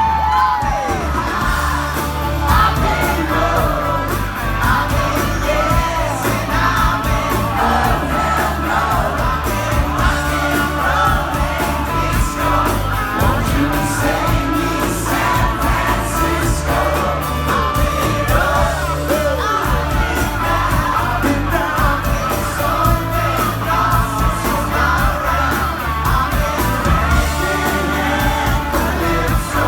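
Live pop-rock band playing, with singing over a steady bass line.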